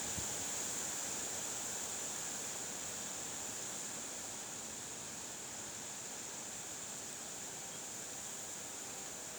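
A steady hiss, brightest high up, that fades slightly over the few seconds.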